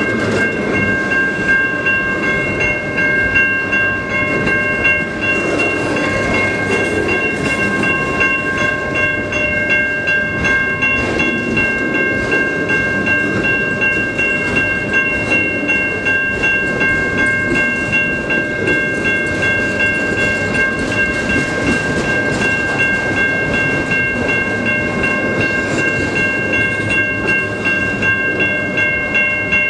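Freight train cars rolling slowly through a road crossing: a steady rumble with wheel clicks, and a set of high steady tones above it.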